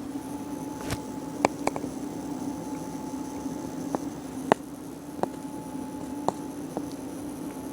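MCP655 water-cooling pump in a PC running close up, with a steady low hum and a thin high whine, broken by irregular sharp clicks and ticks. The owner takes the noise for an electrical fault in the pump.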